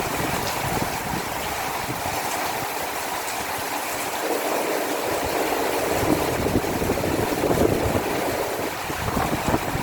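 Heavy thunderstorm rain falling steadily, a dense, even hiss with low rumbles underneath, swelling slightly about two thirds of the way in.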